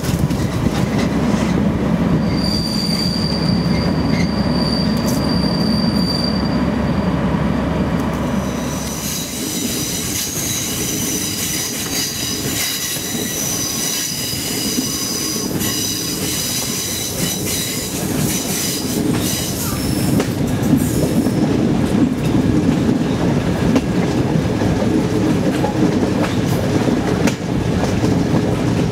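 A diesel-hauled passenger train running along the track, with steady running rumble and rail clatter. For a stretch in the middle the wheels squeal high-pitched, then the rumble returns.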